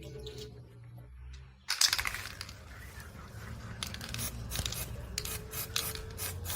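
Scratchy rubbing and scraping noise that starts suddenly about two seconds in and goes on in uneven strokes, over a low steady hum.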